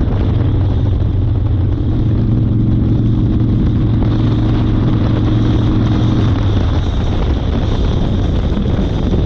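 1992 Harley-Davidson Fat Boy's 1340 cc Evolution V-twin running under way, with wind rushing over the chest-mounted microphone. The engine note is strongest through the middle, then drops back about six seconds in as the wind noise takes over.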